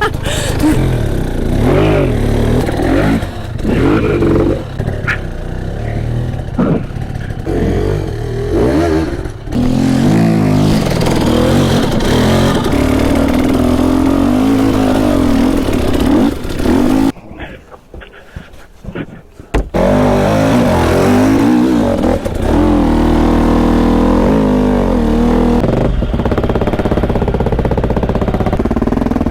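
Two-stroke dirt bike engine revving hard, its pitch rising and falling with the throttle. It goes quiet for a couple of seconds past the middle, then runs again more evenly.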